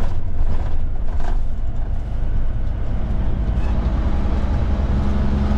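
Heavy truck's diesel engine running with road noise, steady and low. A steady tone joins in near the end.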